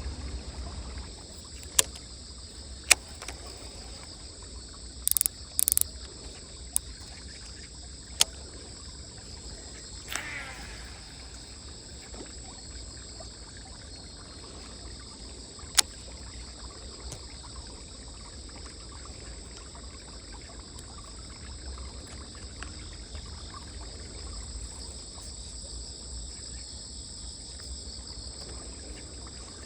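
Outdoor ambience at the fishing spot: a steady low rumble and a steady high buzz, with a few sharp clicks spread through. There are two short hisses about five seconds in and a brief falling sound about ten seconds in.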